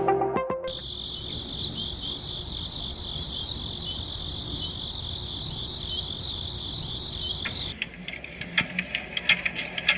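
Steady high insect-like chirring. About eight seconds in it gives way to fast mechanical ticking, like a small motor running.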